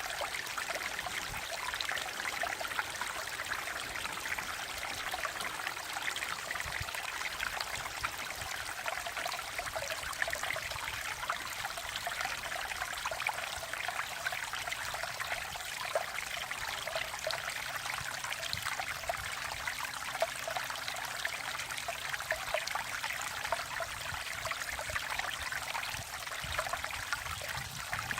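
Mountain valley stream flowing steadily, a continuous rush of water with fine trickling and splashing.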